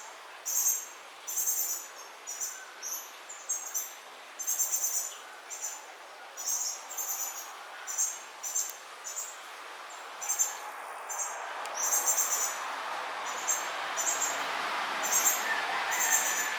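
Young cardinal chirping: short, very high-pitched calls repeated about once a second. A steady background hiss grows louder about two-thirds of the way through.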